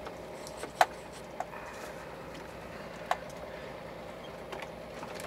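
Scania truck's diesel engine pulling steadily uphill under held throttle in 8th gear, a steady drone, with a few sharp clicks, the loudest just under a second in.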